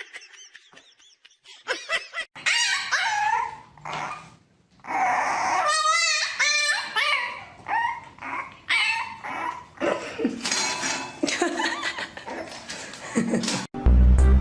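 A pet animal whining and yelping in a string of pitched calls that bend up and down in pitch, with a quick warbling stretch in the middle.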